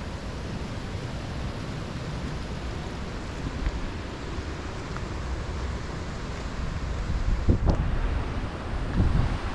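Steady rushing of a river, with wind buffeting the microphone in low gusts over the last couple of seconds.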